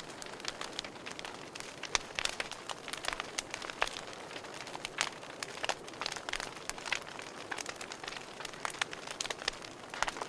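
Wood fire crackling in a fireplace: irregular sharp pops and snaps, several a second and now and then a louder one, over a soft steady hiss of burning.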